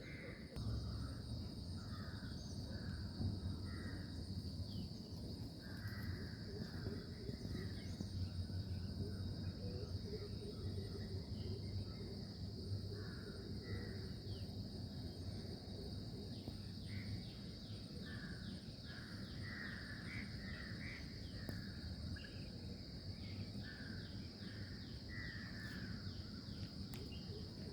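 Crows cawing on and off over a steady high insect drone and a low rumble. Quick runs of bird chirps come in about halfway through and again near the end.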